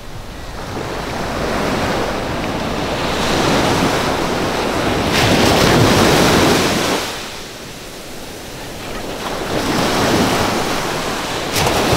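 Ocean surf breaking on a beach, the wash swelling and fading in long surges, the loudest in the middle and another near the end, with wind buffeting the microphone.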